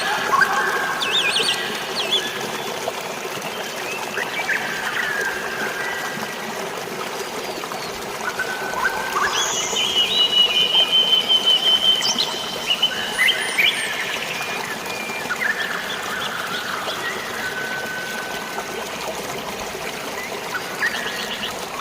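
Flowing water trickling and splashing steadily, with birds calling and whistling over it; a fast, high trill stands out about ten seconds in and lasts about two seconds.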